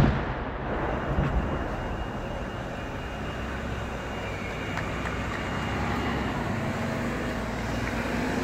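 The echo of a large firework shell's bang dies away over the first second. After that there is steady outdoor noise with vehicle engines running.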